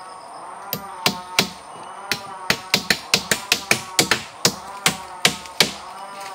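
A series of about fifteen sharp blows, like a blade or tool striking wood, irregular and coming quicker in the middle, as shelter-building work goes on.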